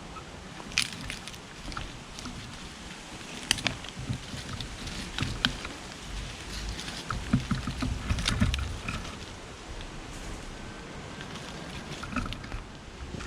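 Scattered light knocks, clicks and rustles of hands working through soil and handling potatoes, with a few heavier thuds about two-thirds of the way through over a low uneven rumble.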